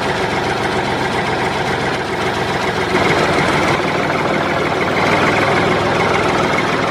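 Small engine running steadily at a fast, even beat, with no change in speed.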